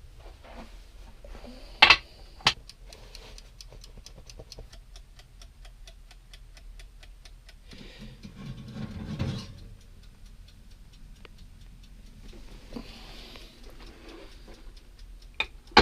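Two sharp clicks, then a rapid, even mechanical ticking of about five ticks a second that fades out after several seconds; a brief rustling noise comes partway through.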